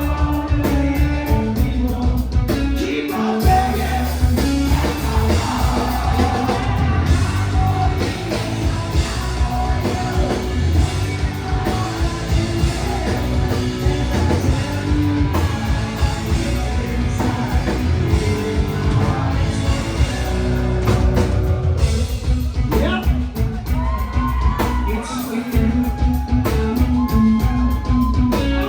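A rock band playing live, with a lead singer's vocals over electric guitars and a steady drum beat.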